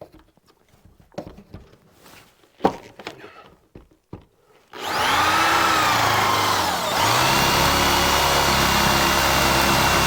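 A few light handling clicks and taps, then about five seconds in an electric power tool's motor starts with a rising whine, dips in pitch briefly and runs on steadily.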